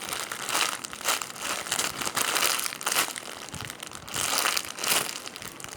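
Crinkling and rustling in irregular bursts as a foam squishy toy is squeezed and handled close to the microphone.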